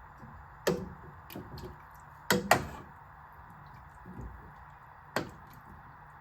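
A handful of sharp knocks and clacks from things being handled while cooking, the loudest a quick double knock about two and a half seconds in, over a steady background hum.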